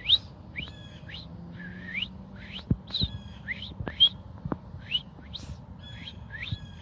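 A person whistling an imitation of a red-eyed vireo's song: a choppy string of short, upward-slurred whistled notes, about two a second.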